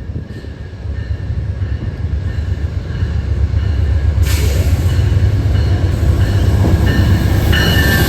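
Amtrak P42DC diesel locomotive leading a Northeast Regional passenger train on approach, growing steadily louder with a heavy low engine rumble. About four seconds in, a loud hiss of wheels on rail joins, with faint wheel squeal.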